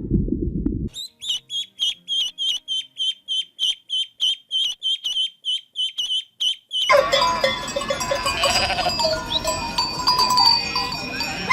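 Animal sounds: a run of high, evenly spaced chirps, about four a second, for several seconds, then a busier stretch of farm-animal noise with steady ringing tones.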